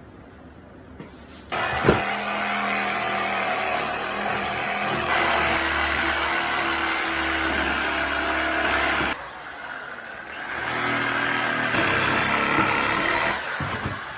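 Reciprocating saw with a Milwaukee carbide-tooth Wrecker blade cutting through a wooden railroad tie. It starts about a second and a half in, runs steadily, stops suddenly past the middle, then starts again a second or so later and stops near the end.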